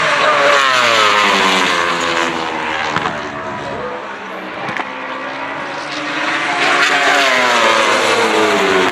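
Superbike race motorcycles' engines at high revs passing the trackside, their pitch falling as they go by, then a louder wave of engine noise with rising pitch from about two-thirds of the way in.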